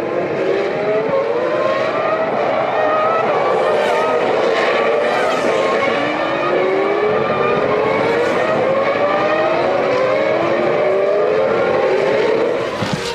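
Several Formula One cars' V10 engines at full throttle, overlapping. Each climbs in pitch and drops back at every upshift, over and over, as the cars accelerate through the gears.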